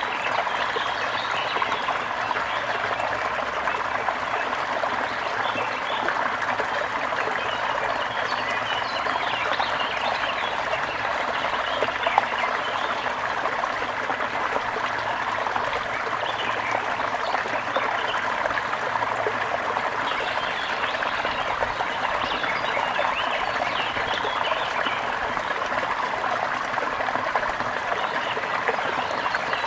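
Brook water babbling and trickling steadily over stones, with one brief louder click about twelve seconds in.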